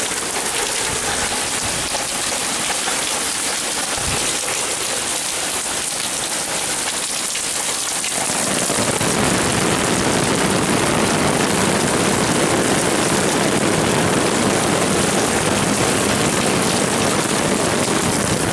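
Hurricane rain pouring steadily. About halfway through, a deeper roar of hurricane wind comes in and the whole sound grows louder.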